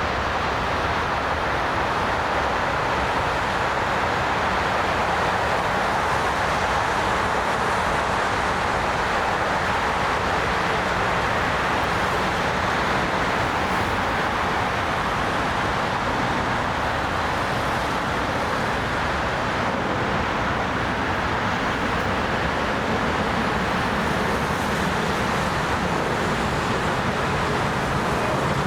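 Jet aircraft engine noise: a steady, even roar that neither rises nor falls.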